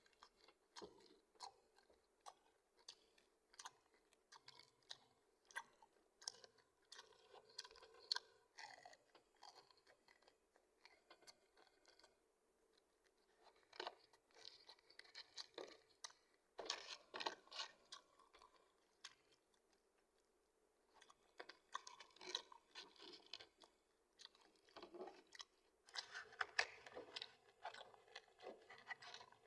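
Close-miked chewing of McDonald's fried chicken and rice, with soft wet chews and crisp crunches coming in irregular runs. There are short pauses about twelve seconds in and again about twenty seconds in.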